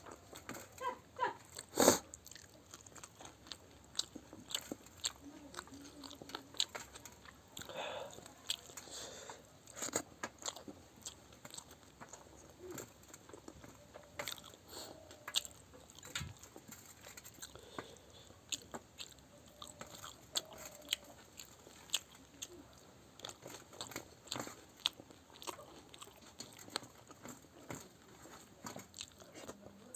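A person chewing and biting food with many short crunches and wet mouth clicks, one sharp loud crunch about two seconds in.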